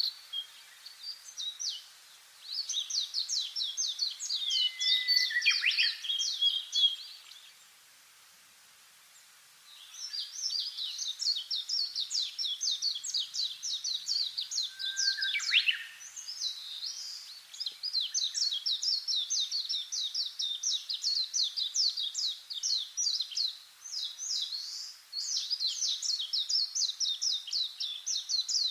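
Small birds chirping and twittering in quick, dense runs of high notes, pausing for about two seconds around eight seconds in before carrying on.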